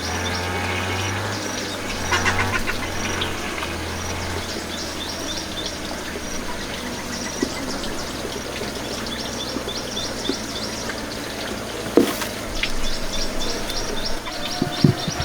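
Birds chirping in quick, evenly repeated high notes, with a single sharp knock about twelve seconds in.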